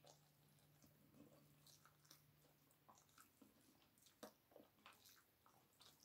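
Near silence with faint, scattered wet clicks of a person chewing chicken wings and rice, eaten by hand; a few clicks are a little louder about four to five seconds in.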